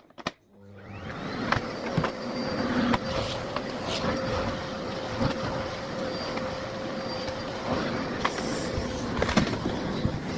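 Miele Blizzard CX1 bagless cylinder vacuum cleaner switched on with a click, its motor spinning up with a rising whine over about a second, then running steadily with a constant hum. Scattered sharp clicks and knocks over the running motor as it picks up debris.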